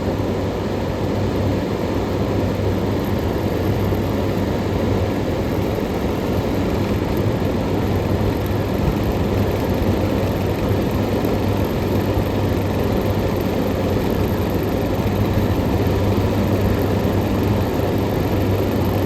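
A 1991–92 Kenmore 18,000 BTU air conditioner running with its compressor shut off: the fan runs steadily, a constant rush of air over a low hum.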